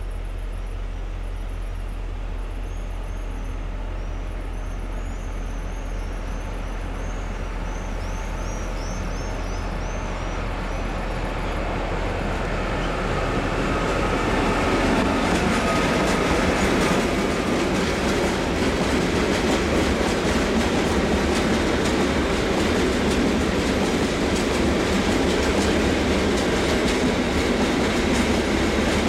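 Freight train led by an ÖBB Siemens Taurus electric locomotive passing close by. The rumble grows louder from about twelve seconds in as the locomotive draws level. A long train of coal hopper wagons then rolls past with steady wheel clatter.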